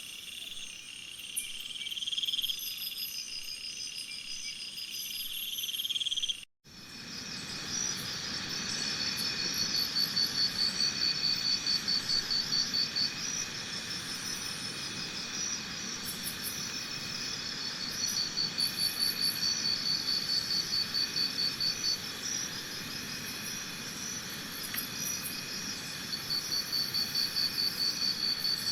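Crickets chirping in high, rapid pulsed trills that come in repeated bouts of a few seconds. The sound drops out briefly about six seconds in.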